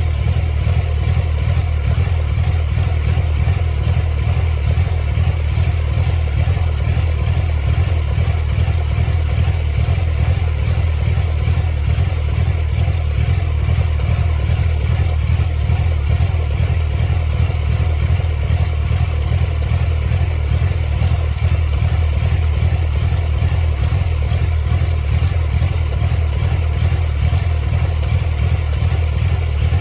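1999 Mercedes-Benz C230 Kompressor's supercharged four-cylinder engine idling steadily, a fast even low pulse with no revving.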